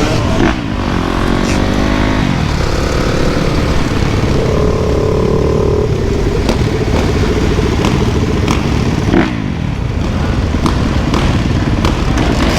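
Dirt bike engines running and revving, their pitch rising and falling in the first couple of seconds, then one engine holding a steadier note for a couple of seconds about four seconds in, over a heavy low rumble.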